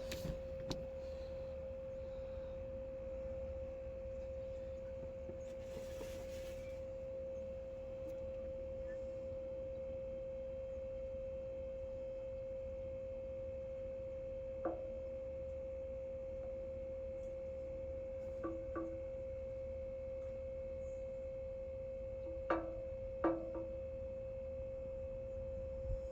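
A steady single-pitch whine over a low rumble, with a few short faint knocks and clinks: two near the end.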